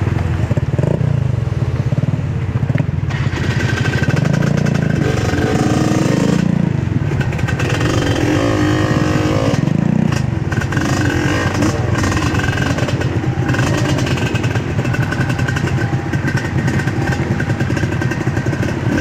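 Trail motorcycle engine running and being revved, its pitch rising and falling several times.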